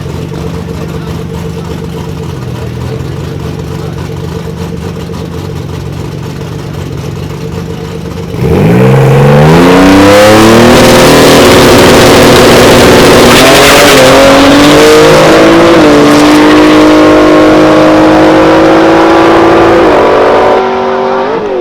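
Twin-turbo Nissan 300ZX engine running steadily at light throttle. About eight seconds in it suddenly goes to full throttle and gets very loud, its pitch climbing fast and then holding high, with small steps, for the rest of the pull.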